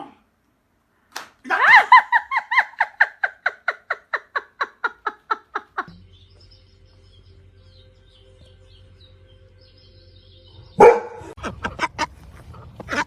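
A dog yapping in a fast, even string of high yips, about seven a second, that fade out over about four seconds. A low steady hum follows, then a sudden loud noise near the end.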